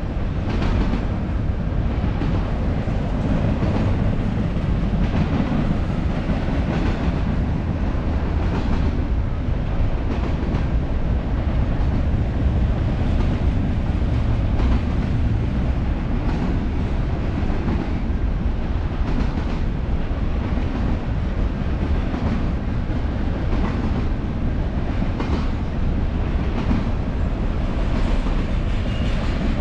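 A freight train's cars rolling past: a steady heavy rumble of steel wheels on rail, with a clack from the wheels about every second.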